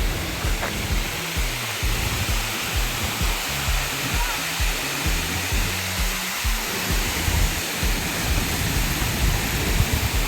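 Steady roar of a tall waterfall's falling water, with a music track's bass beat running underneath.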